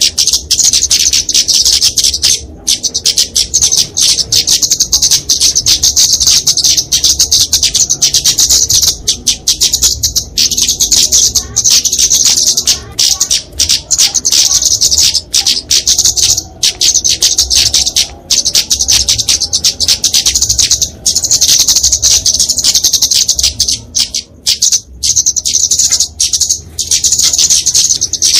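Flowerpecker (kemade) giving agitated fighting calls: a fast, continuous stream of sharp, high-pitched chips with only a few short pauses.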